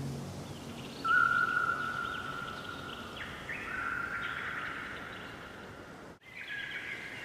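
Songbirds singing at dawn: several overlapping whistled songs and trills, with one long held whistle beginning about a second in. The sound cuts out for an instant about six seconds in, then the birdsong resumes.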